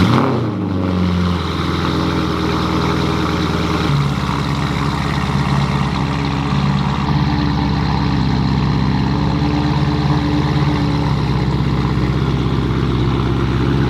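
Porsche Panamera Turbo's twin-turbo V8 just fired up, idling steadily through a custom stainless exhaust, its note shifting slightly about four seconds in.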